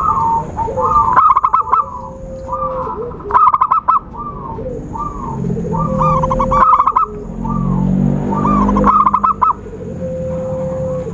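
Zebra doves (perkutut) cooing, several overlapping: short soft coos mixed with quick stuttering runs of notes, repeated throughout. A thin, steady high tone sounds behind them.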